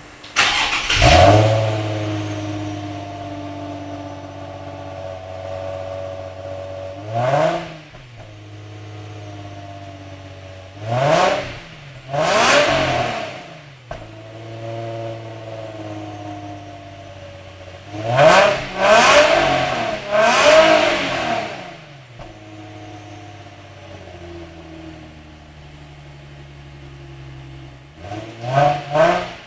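2009 Infiniti FX35's 3.5-litre V6 through its stock exhaust: it starts about half a second in with a flare, settles to a steady idle, then is revved about eight times, mostly short blips with a few longer revs, several in quick succession around 18–21 s and again at the end.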